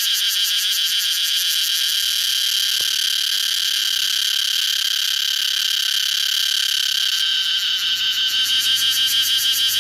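Cicadas singing: a loud, continuous high buzz that pulses rapidly at the start and again over the last two seconds, smoother in between.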